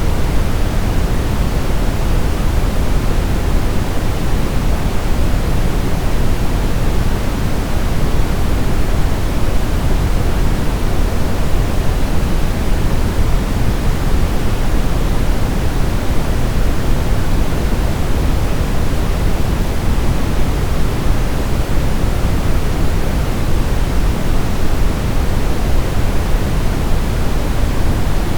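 Steady brown noise, a deep even rushing hiss weighted toward the bass, unchanging throughout.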